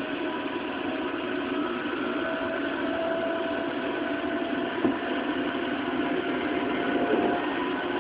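Running noise inside a JR 211-series electric train's motor car (resistance-controlled DC traction motors) at speed: a steady rumble of wheels and motors with a faint whine that rises slightly in pitch, and a single knock about five seconds in.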